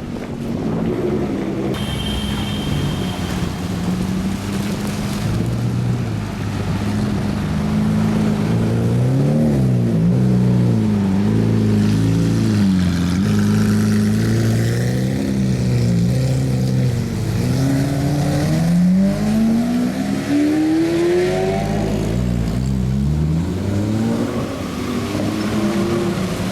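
Supercar engines driving off one after another, their revs rising and falling, with a long climbing rev about two-thirds of the way through.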